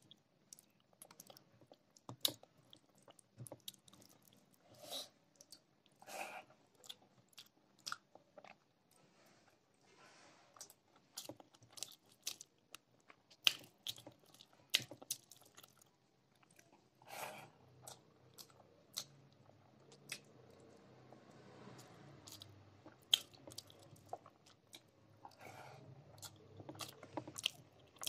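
Close-miked chewing and mouth sounds of a person eating rice and curry by hand: irregular wet smacks and short clicks throughout.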